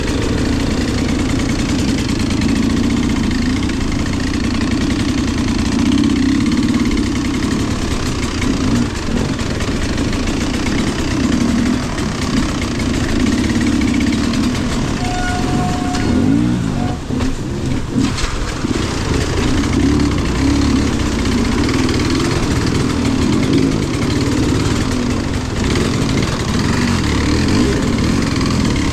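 Off-road vehicle engine running continuously under throttle, its pitch wavering up and down as it works along a muddy trail.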